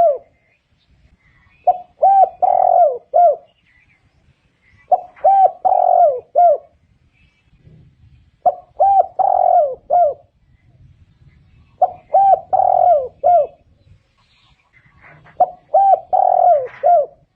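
Spotted dove cooing: a phrase of about four coos, the middle one the longest, repeated five times about every three and a half seconds.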